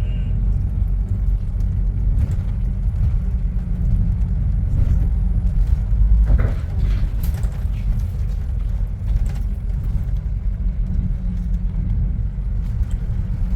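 Steady low rumble of a moving bus heard from inside, engine and road noise, with a brief louder swell about six seconds in.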